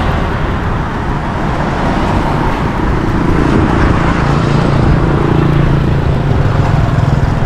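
A loud, steady rushing noise with a low, even hum underneath.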